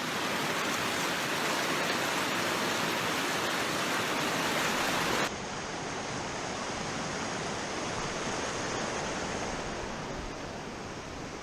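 Steady rushing wind and road noise from a motorcycle riding a dirt track, with no engine note standing out. About five seconds in the sound changes abruptly, becoming duller and a little quieter.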